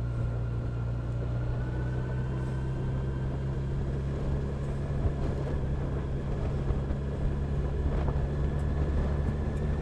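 Motorcycle engine running steadily while riding, with a thin whine that rises slightly over the seconds and a few small knocks from the rough road surface.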